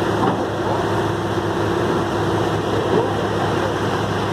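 Heavy truck's diesel engine running steadily at a constant speed.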